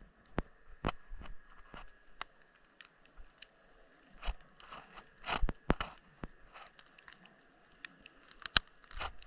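Irregular sharp clicks and crackles recorded underwater, with a couple of louder knocks among them over a faint steady tone.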